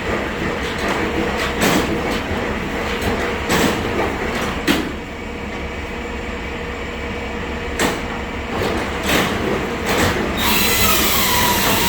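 Steady rumbling vehicle noise with scattered knocks and rattles. About ten seconds in, a high wavering squeal joins it and bends up and down in pitch.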